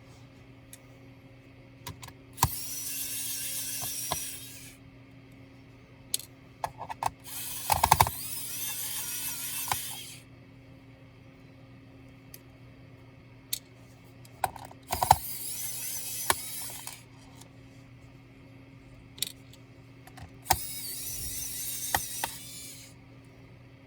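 Small electric screwdriver running in four bursts of about two seconds each, backing out laptop case screws, with light clicks and taps from the screws and tool between the bursts.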